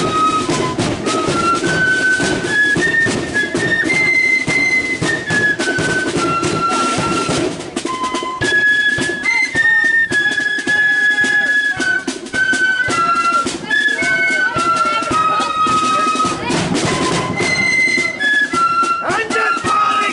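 Marching flute band playing a tune in unison, the flutes' melody moving step by step in held high notes over a steady beat of drums.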